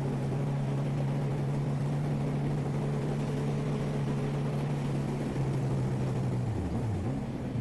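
900 cc motorcycle engine with an aftermarket sport exhaust running at a steady cruise, with wind noise. Near the end the engine note dips and climbs back as the throttle is eased off and reopened.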